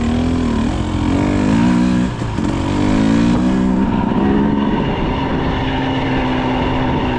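Two-stroke dirt bike engine revving up and down as the bike pulls away, then holding a steadier speed.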